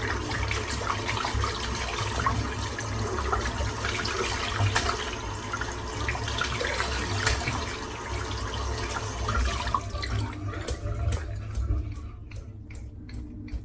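Tap water running over a shaving brush as it is rinsed to flush leftover lather out of the knot. The flow stops about ten seconds in, leaving a few drips.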